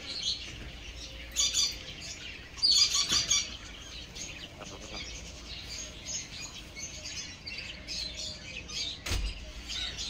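Small birds chirping in short runs of high-pitched calls, loudest about a second and a half in and again around three seconds, with scattered quieter chirps after. There is a brief low thump near the end.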